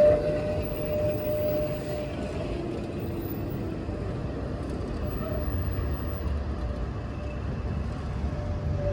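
Street traffic around a tram: a steady low rumble of vehicles, with a high steady whine that fades out about two seconds in and comes back near the end.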